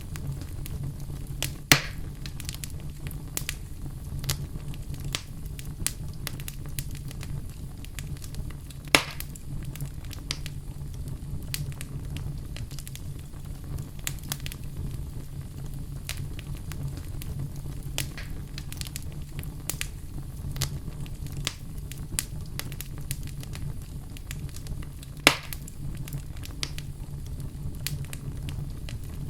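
Wood fire burning with a steady low rumble and constant crackling, with three louder pops spread through it.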